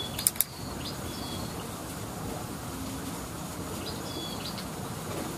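Short, high whistled bird calls, repeated several times over a steady outdoor background hiss, with two sharp clicks near the start.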